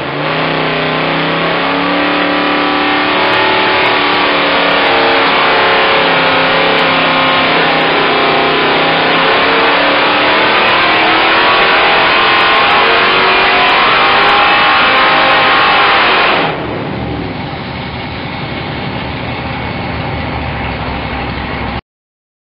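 Fuel-injected Mopar 508-cubic-inch V8 running under load on an engine dyno, its pitch climbing steadily through a pull. About sixteen seconds in, the sound drops suddenly to a lower, quieter, rougher run, then cuts off.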